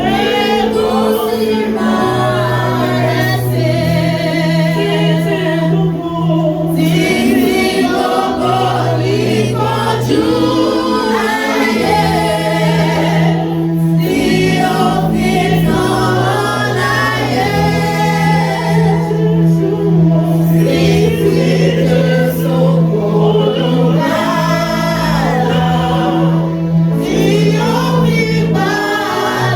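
Congregation or choir singing a gospel song over sustained organ or keyboard bass chords that change every few seconds.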